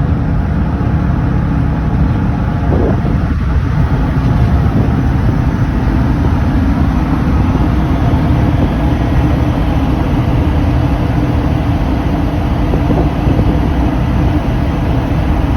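Steady low rumble of a ferry's engines while the ship is underway.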